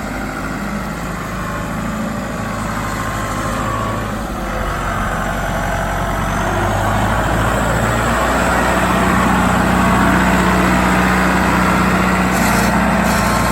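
John Deere 5520 tractor's four-cylinder diesel engine running, getting gradually louder.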